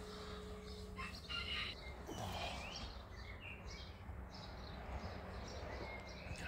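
Birds chirping and calling in short scattered phrases, over a steady low background hum.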